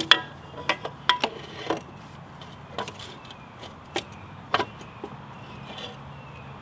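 Irregular metallic clinks and knocks as a dirt bike's exhaust pipe is worked against the frame while being fitted, most of them in the first couple of seconds.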